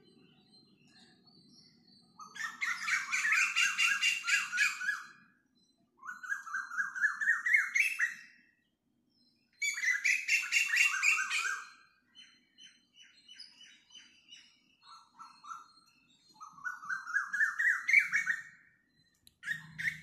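A bird singing in rapid trilled phrases of two to three seconds each, about five of them with short pauses between, several rising in pitch toward their end.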